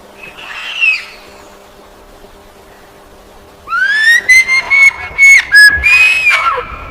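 A bird calling. First comes a short, falling whistled note. About three seconds later there is a loud, long whistled call that rises and then holds. It breaks off briefly several times and ends in falling notes.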